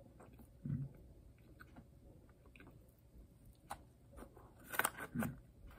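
Close-miked biting and chewing of a foot-long cookie that is crunchy in parts and gooey in others, with a short low thump about a second in and a louder run of crunching about five seconds in.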